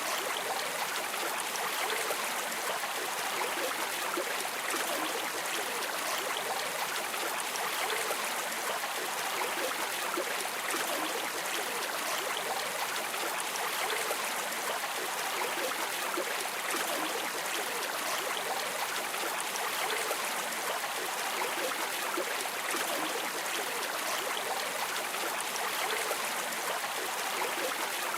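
River water streaming and rippling steadily, a continuous bright rushing hiss with little low rumble.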